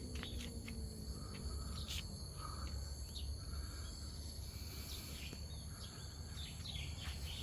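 Outdoor garden ambience: insects keep up a steady high buzz, with short scattered bird chirps over a steady low rumble.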